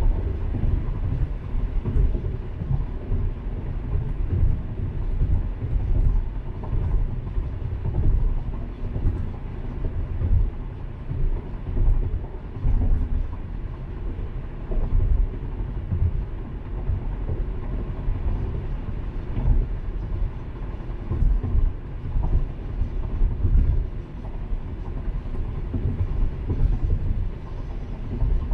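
Car driving at road speed: a steady low rumble of road and engine noise heard inside the cabin.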